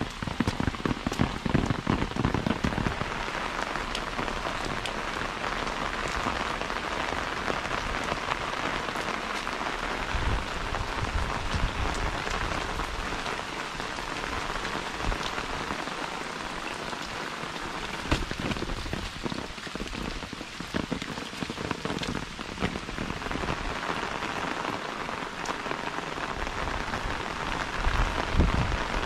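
Steady rain falling, an even hiss dotted with many separate drop ticks. Low bumps come through in the first few seconds and again past the middle.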